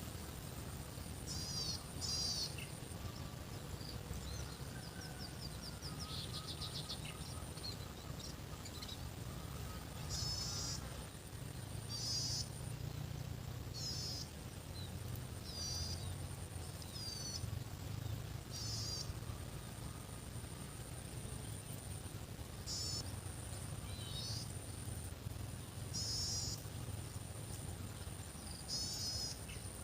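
Birds chirping in short repeated phrases every second or two, over a steady high thin whine that comes and goes and a constant low rumble.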